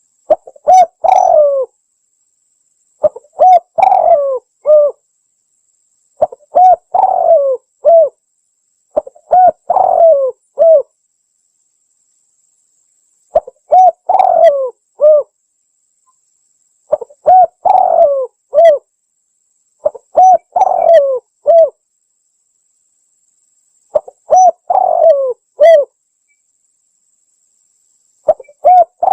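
Spotted dove (tekukur) cooing: a lure recording of its call, phrases of several mellow coos repeated about every three to four seconds, with silence between phrases.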